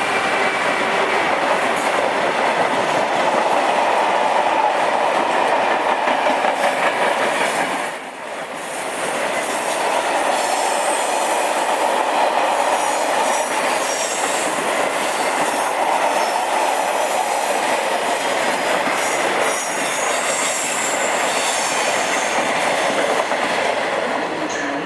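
Train moving along the track, a loud steady rush of wheels on rail with clickety-clack and some high wheel squeal, dipping briefly about eight seconds in.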